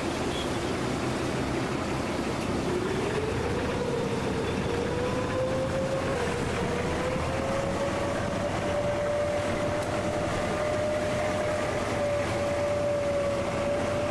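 Boat engine running over a steady wash of water and wind noise, its pitch rising from about three seconds in as it speeds up, then holding steady.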